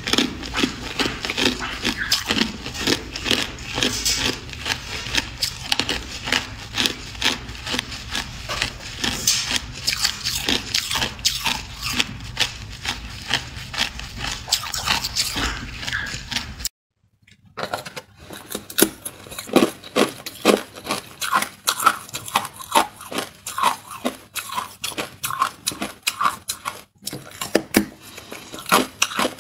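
A person biting and chewing hard clear ice: a dense run of rapid crunches and cracks. It breaks off about 17 s in and resumes as sharper, crisper crunching.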